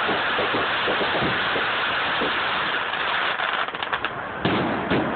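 Fireworks going off: a dense hissing crackle of sparks that thins out about three seconds in into scattered separate pops, with a louder bang near the end.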